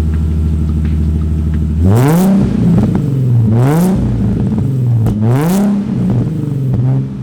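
Nissan 350Z's VQ35HR V6 through an ISR single-exit exhaust, idling and then revved three times, each rev rising in pitch and dropping back to idle.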